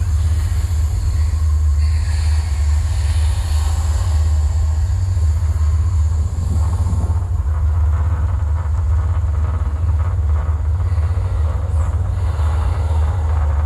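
A loud, steady low rumble with a fainter rushing noise above it.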